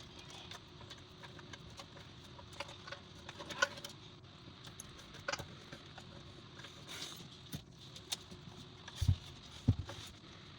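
Small scattered clicks, taps and rustles of hands working fan cables and plastic connectors inside a PC case, with two dull thumps about half a second apart near the end.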